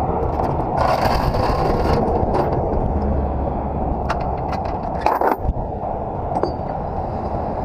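Steady rumble of a running truck engine, with scattered sharp clicks and knocks and a brief hiss about a second in.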